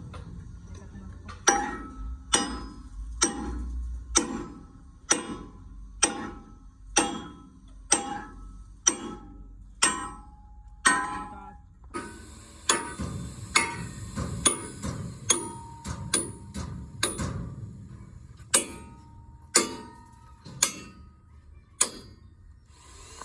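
A hammer striking steel at a steady pace of about one blow a second, some twenty blows in all, each with a brief metallic ring; there is a short gap about eleven seconds in.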